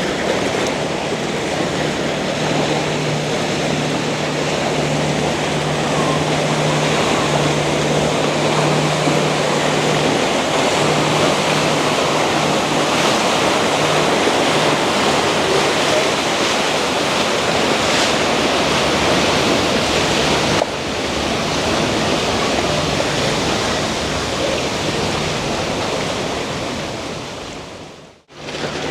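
Steady rushing of lake water and wind, with a low steady hum under it for the first two-thirds. The sound drops abruptly about two-thirds in, then fades out near the end.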